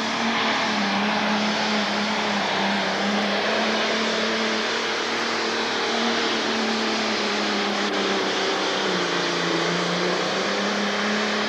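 Pro stock pulling tractor's turbocharged diesel engine running flat out under load on the sled, a loud, steady high-rev drone. Its pitch sags briefly near the end, recovers, then falls away at the very end.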